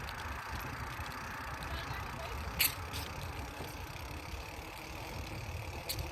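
Steady rumble of wind and road noise from a bicycle rolling along a road, with a couple of short sharp clicks or rattles, one about two and a half seconds in and one near the end.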